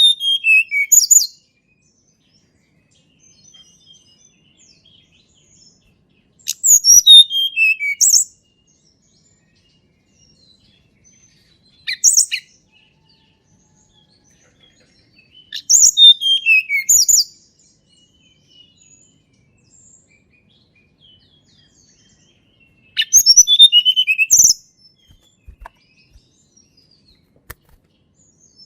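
Tledekan gunung songbird singing: five short, high-pitched phrases of quick notes, spaced several seconds apart. Each phrase slides downward in pitch, and the third one is briefer than the others.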